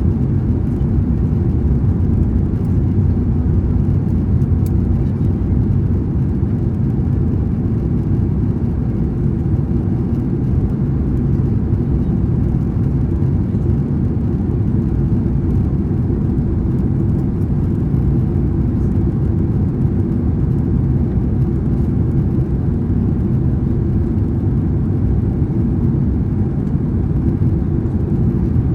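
Steady cabin noise inside a Boeing 767-300ER airliner in flight: a constant low rumble of engines and rushing air that does not change in pitch or level.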